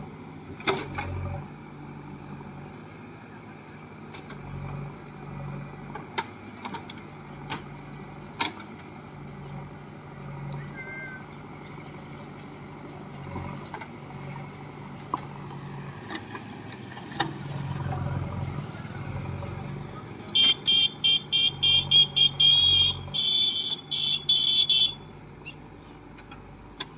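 JCB backhoe loader's diesel engine running steadily while digging, with scattered sharp knocks and clanks. Near the end comes a quick run of short, high-pitched beeps.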